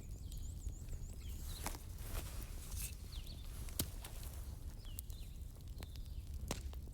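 Wood fire crackling in a fireplace: sharp, irregular pops about once a second over a steady low rumble, with a few faint high whistling tones.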